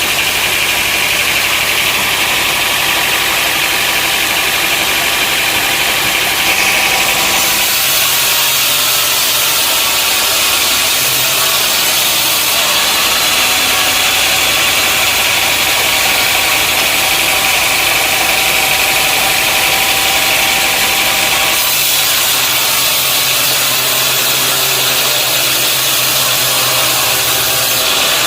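Sawmill machinery running steadily, an engine note under a high hiss. The sound changes about seven seconds in and again about twenty-one seconds in.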